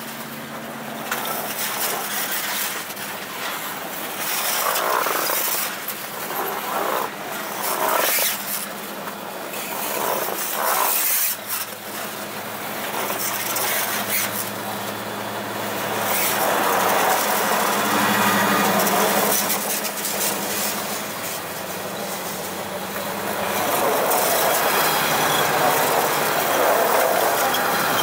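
Freight train passing close by. Loaded grain hopper wagons roll past with their wheels clacking and rattling on the rails, then the diesel engines of a mid-train Locotrol remote GM GT22 locomotive and the trailing GM G22UC helper locomotives run steadily as they come alongside.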